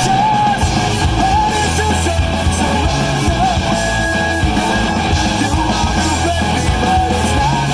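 Rock song from a band's recording: guitars with a voice singing over a steady low bass.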